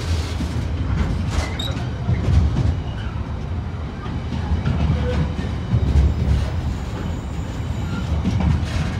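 Container freight train's wagons rolling past at close range: a steady low rumble of wheels on rails with irregular clicks as the wheels cross rail joints.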